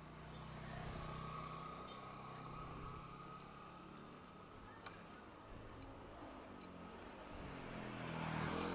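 Faint, steady engine hum with a slight swell near the end, and a single sharp click about five seconds in.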